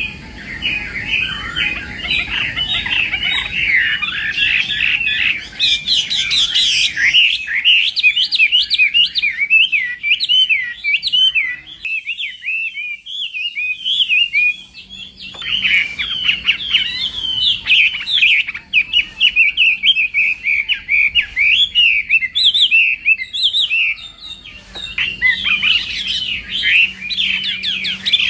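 Chinese hwamei singing a long, rapid, varied song of quick whistled and warbled notes, with hardly a break.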